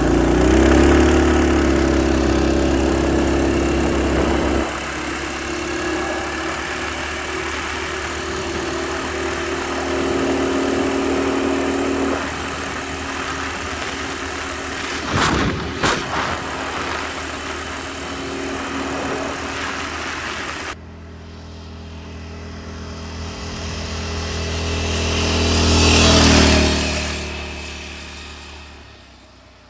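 Predator 212 single-cylinder four-stroke engine on a mini bike running under way, its pitch holding fairly steady. Near the end the bike passes by, growing louder to a peak and then fading away.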